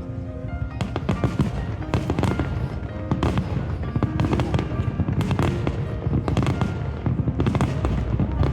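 Fireworks bursting and crackling in rapid, overlapping bangs throughout, under background music.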